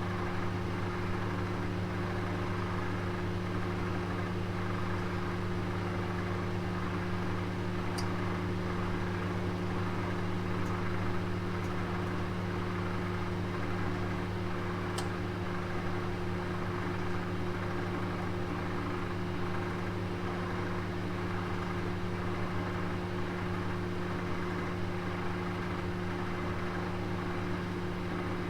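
Oven running with a roast cooking inside: a steady hum and whir, with two faint ticks about a third and halfway through.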